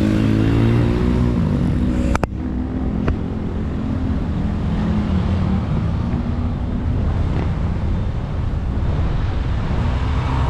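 Motor vehicle engine running steadily with a low hum, with a sharp click about two seconds in and a fainter one a second later.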